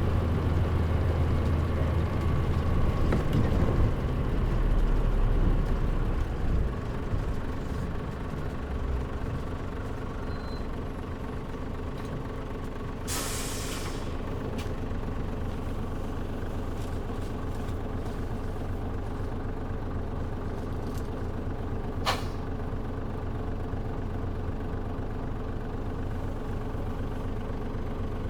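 Interior sound of a 2003 Mitsubishi Fuso Aero Star city bus (KL-MP37JM), its diesel engine running heavier for the first several seconds, then settling to a steady idle. About halfway through there is a short burst of air-brake hiss, and later a single sharp click.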